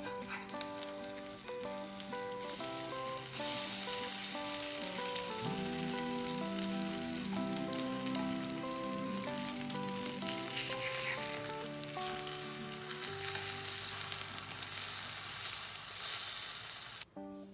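Food sizzling as it fries in a pan, louder from about three seconds in and cutting off just before the end, with background music of single plucked notes.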